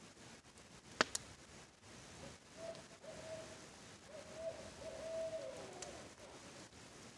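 An owl hooting: a short hoot, then a longer drawn-out hoot that slides down in pitch at its end. Two sharp pops from the crackling campfire about a second in are the loudest sounds, over a steady hiss of rain.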